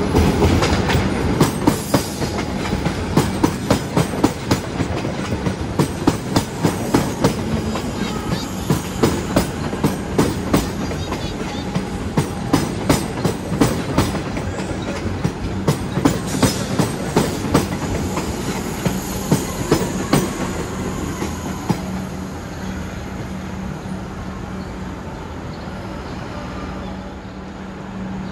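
Comeng electric suburban train passing close by, its wheels clacking over the track in a quick, regular rhythm that dies away over the last several seconds.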